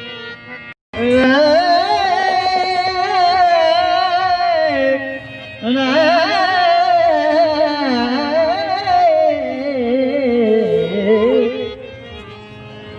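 A man singing two long, wavering, ornamented held phrases in Rajasthani folk style. The first starts about a second in, the second about halfway through, and each slides down at its end.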